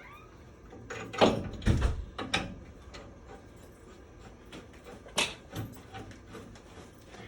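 A few knocks and bumps from handling things during the work. They come in two clusters: several between about one and two and a half seconds in, and two more around five seconds in.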